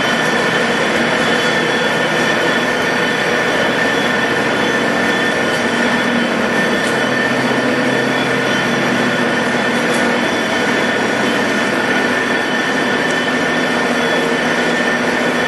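Large American Pacemaker heavy-duty engine lathe running under power, a steady mechanical drone with a constant whine.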